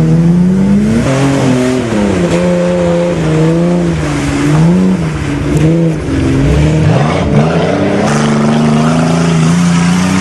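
Saturn sedan's engine revving hard, its pitch rising and falling again and again as the car is driven through mud.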